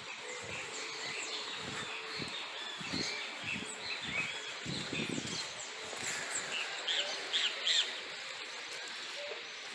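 Many small birds chirping and twittering, with a few louder calls near the end. Several low, soft thumps are heard in the first half.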